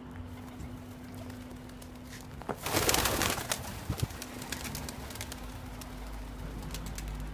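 Domestic pigeons cooing in a loft. About three seconds in there is a loud burst of rustling noise lasting about a second, followed by scattered sharp clicks.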